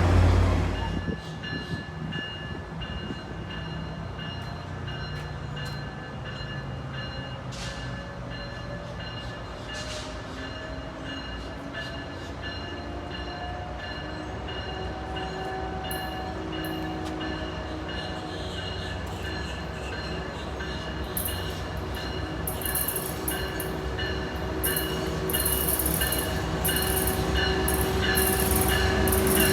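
Tri-Rail diesel commuter train: a steady low rumble with a whine that rises slowly in pitch over the first half, growing louder toward the end, with rapid clicking in the last several seconds.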